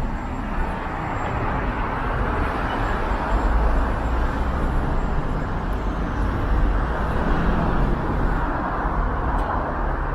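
Road traffic passing close by: a steady noise of car engines and tyres that swells twice as vehicles go past.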